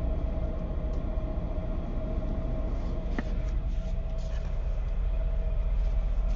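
Passenger boat's engines running, heard aboard as a steady low rumble with a constant hum above it; a brief faint squeak about three seconds in.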